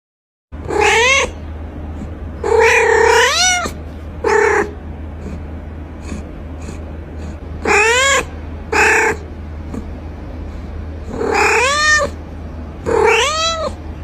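Domestic cat meowing repeatedly, about eight separate meows, several rising and then falling in pitch, over a steady low hum.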